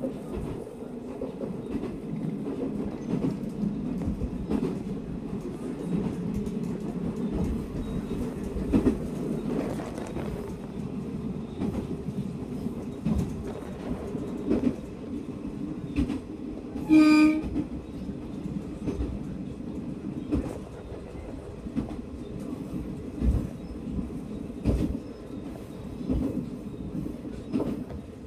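Two-car narrow-gauge local train running on single track, heard from inside the carriage: a steady running rumble with irregular wheel clacks over the rails, and one short horn blast a little past halfway.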